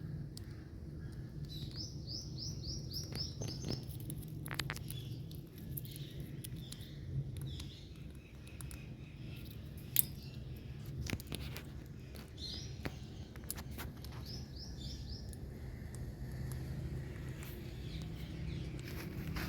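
Indian green parrot calling in runs of quick, high chirps, twice, over a steady low hum, with a few sharp clicks.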